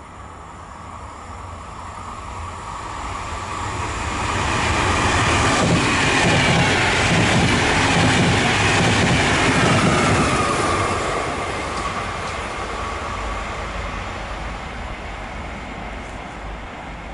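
A passenger train of single-deck coaches passing at speed on an electrified line. The rumble and wheel clatter build, are loudest about 5 to 10 seconds in as it goes by, then fade, with a whine that drops in pitch as the train passes.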